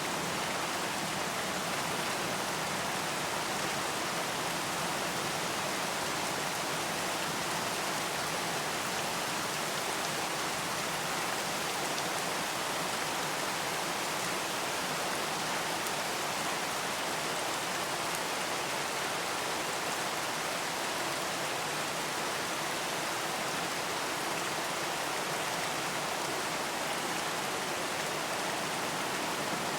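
Steady rain falling, an even hiss of many drops that holds at one level without a break.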